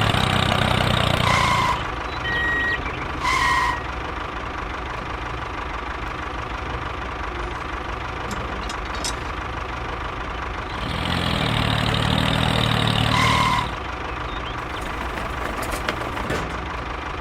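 A mini tractor's engine running steadily. It is louder for the first couple of seconds and again for a few seconds later on, and a few short high beeps sound over it.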